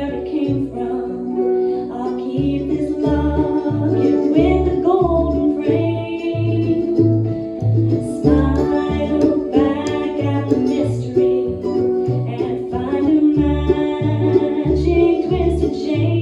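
Acoustic band playing an instrumental passage on harp, mandolin and upright bass, with the plucked bass notes keeping a steady beat under the melody.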